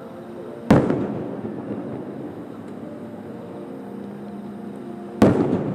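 Two aerial firework shells bursting about four and a half seconds apart, each a sharp boom followed by a rolling echo that dies away, heard from about a kilometre off over steady background noise.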